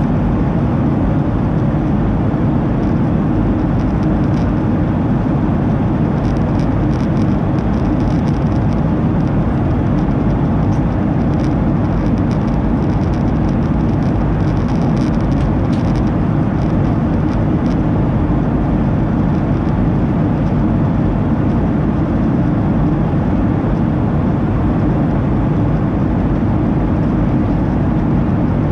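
Steady cabin noise inside a Boeing 737-800: an even, low-heavy rush of engine and airflow noise that does not change.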